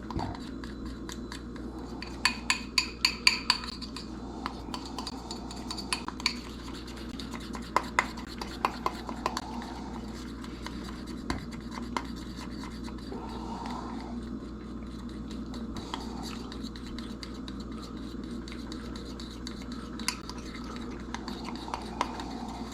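A fork stirring a thick honey-mustard mixture, clinking and scraping against the dish. There are quick runs of taps about two seconds in and again around eight seconds, then occasional lighter ticks.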